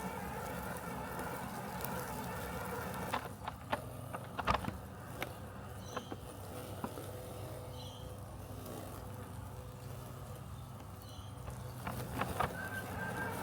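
Robotic lawn mower running with a steady mechanical hum as it cuts grass, with a few sharp clicks about three to five seconds in and again near the end.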